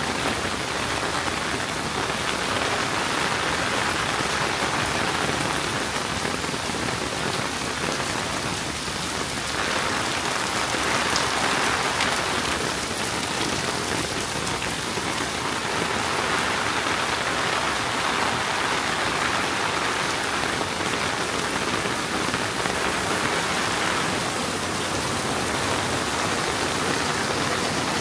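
Steady summer rain falling, an even hiss that swells slightly now and then.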